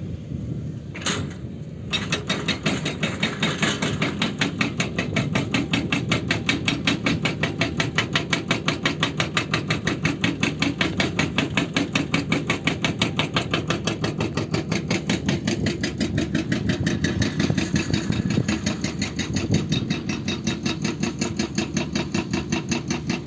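Excavator's hydraulic breaker hammering with rapid, evenly spaced blows over the steady running of the excavator's engine. The hammering starts about two seconds in, after a single sharp knock.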